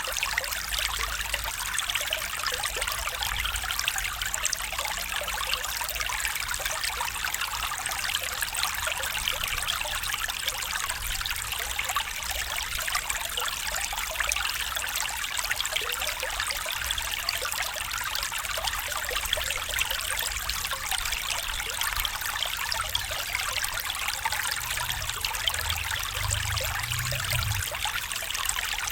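Small stream trickling and babbling over stones, steady throughout. A faint low rumble rises briefly near the end.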